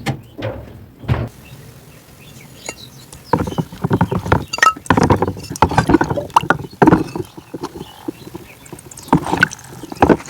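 Crunching, heard as dense irregular crackles: a few at the start, a long run from about three seconds in, and another short run near the end.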